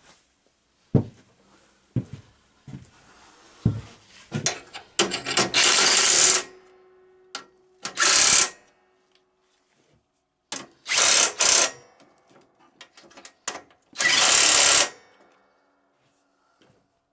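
Handheld power tool run in four short bursts, the first and longest about a second and a half, amid sharp clicks and knocks of tools and parts being handled.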